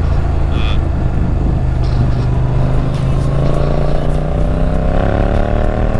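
Motorcycle engine running steadily at low revs, then from about three seconds in rising in pitch as it accelerates.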